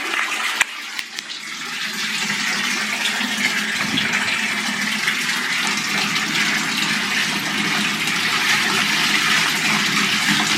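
Hot water running from a bathtub faucet into the tub, a steady rush. It dips after a click about half a second in, then builds back up and holds.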